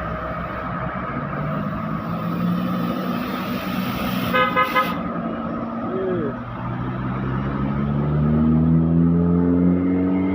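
Truck engines running on the road, with three quick horn toots about four and a half seconds in. Near the end an engine climbs steadily in pitch as a truck pulls away under power.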